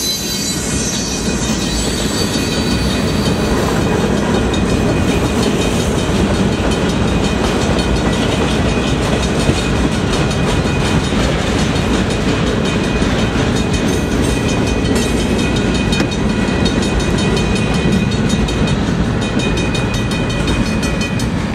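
Freight train cars rolling steadily past: a continuous rumble and clatter of wheels on the rails, with a faint high squeal of wheels now and then.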